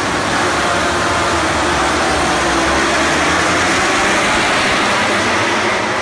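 Loud, steady vehicle noise, a dense roar without a clear engine note, that cuts off suddenly at the end.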